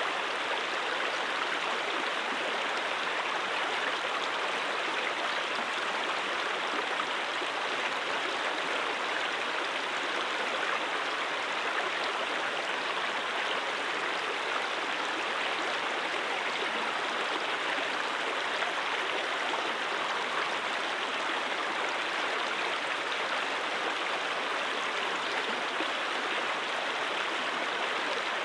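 A mountain stream rushing and splashing over rocks, a steady, even flow of water.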